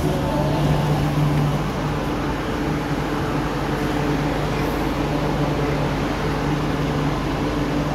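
MTR Q-Train electric multiple unit running on the Island Line: a steady low traction-motor hum over an even rumble of wheels on rail.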